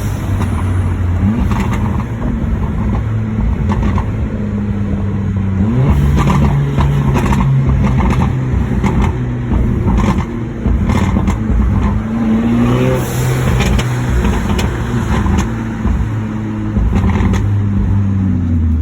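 Mercedes A45 AMG Edition 1's turbocharged 2.0-litre four-cylinder, tuned to stage 2 and breathing through an Fi exhaust, running hard under acceleration. Its note rises in pitch and steps down several times, as at gear changes, with sharp exhaust cracks scattered through.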